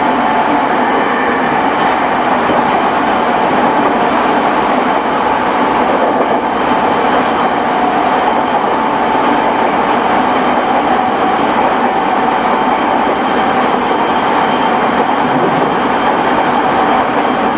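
JR East E217 series electric train with a Mitsubishi IGBT-VVVF inverter, running at a steady speed. There is a steady rumble of wheels on rail and an unchanging whine.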